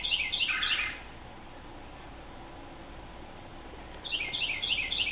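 Birds calling: a rapid run of repeated bright notes in the first second and again from about four seconds in, with faint high chirps of small birds between them.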